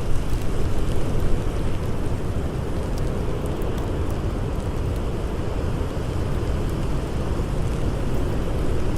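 Blizzard wind blowing in a steady low rumble, with a few faint crackles from a campfire about three to four seconds in.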